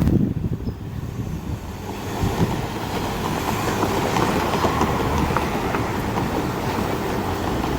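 BNSF freight train's cars rolling past close by: a steady rumble of steel wheels on the rails with scattered clicks, building over the first few seconds and then holding steady.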